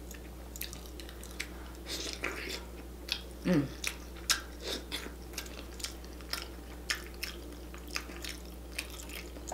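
Close-up mouth sounds of a person eating sauce-covered seafood-boil potatoes: chewing, with many short lip smacks and clicks. A short hummed sound comes about three and a half seconds in.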